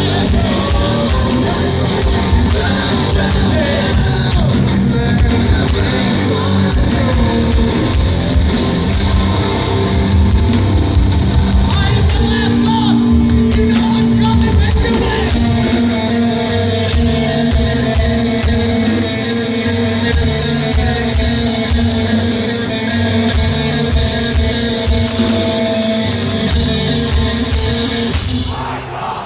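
Loud live heavy rock band playing: drums, distorted guitars and sung-shouted vocals, echoing in a large hall, with a brief break in the music near the end.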